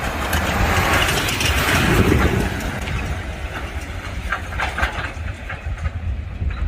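Four-wheel-drive vehicle driving slowly along a rough dirt trail: a steady low engine rumble with scattered clicks and rattles. A rushing hiss swells and fades in the first two seconds or so.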